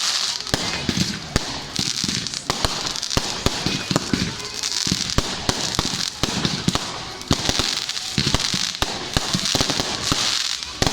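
Firework display going off: many sharp bangs and rapid crackling throughout, with bursts of high fizzing crackle that swell and fade every second or two.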